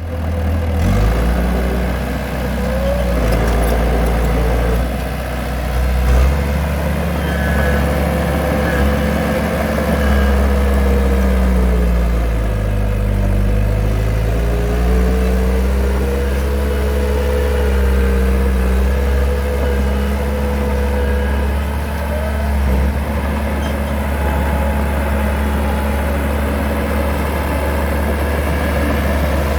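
Heavy construction machine's engine running steadily under work. Its pitch dips and climbs again about midway as the engine speed changes.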